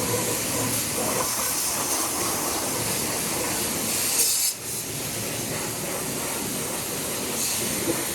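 Car-wash pressure-washer wand spraying water in a steady hiss, briefly dropping out about four and a half seconds in.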